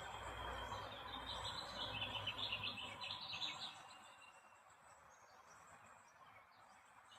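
Small birds chirping outdoors, with a quick run of high chirps in the first few seconds and then sparser, fainter chirps over a steady background hiss.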